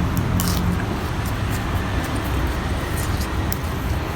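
Eating sounds close to the microphone: a few short crunches against a steady low rumble.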